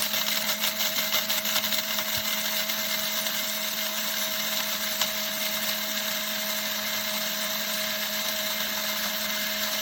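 DmofwHi cordless blade coffee grinder running steadily, its stainless steel blade chopping a rounded scoop of whole coffee beans: a constant motor whir with a steady hum. It sounds rattly over the first couple of seconds, then evens out. This is a short grind, about 12 seconds, kept coarse enough for a reusable K-cup.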